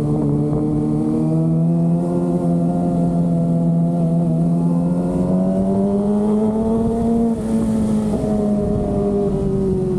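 Kawasaki ZX-25R's 250 cc inline-four engine under way, its pitch climbing slowly for about seven seconds. After a brief dip the revs fall away steadily.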